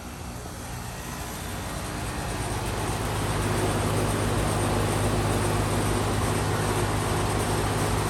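A 1997 Carrier 38CKB 5-ton central air conditioner starting up unexpectedly: the compressor, which sounds like a scroll, and the condenser fan come on and build over about three seconds to a steady hum and rush of air.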